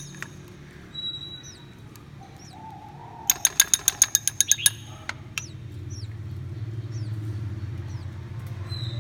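Small birds giving short, falling chirps here and there, with a quick run of about ten sharp clicks about halfway through; a low hum grows louder near the end.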